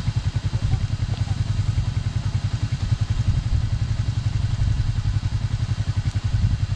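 Yamaha NMAX scooter running along at riding speed, a steady, loud low rumble that pulses rapidly.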